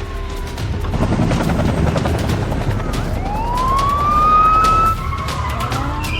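Police car sirens wailing over a steady low engine rumble during a car chase. One siren rises and holds loudest about three to five seconds in, then cuts off, while other siren tones slide up and down.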